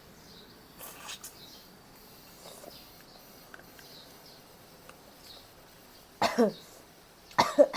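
A person coughing twice near the end, the second time a quick double cough. Faint bird chirps sound between the coughs.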